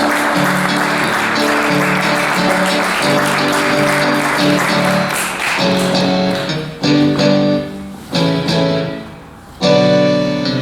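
Audience applauding over instrumental music playing sustained chords; the applause dies away about six seconds in, leaving the chords, struck in separate loud strokes.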